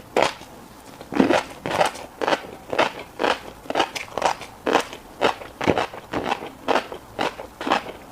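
Close-miked chewing of a mouthful of fish roe, a regular run of short wet strokes about twice a second that starts about a second in.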